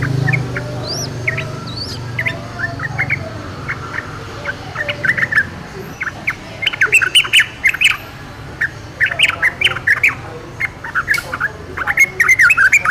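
Yellow-vented bulbul (trucukan) calling: a few short rising whistled notes, then from about five seconds in, quick bursts of chattering notes that grow busier toward the end.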